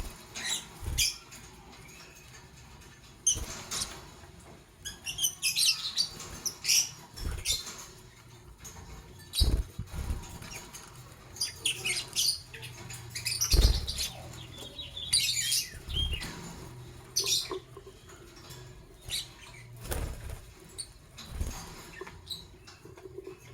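Lovebirds chirping in short, high-pitched bursts, with scratchy fluttering and a few dull thumps from their wings and movement in the cage.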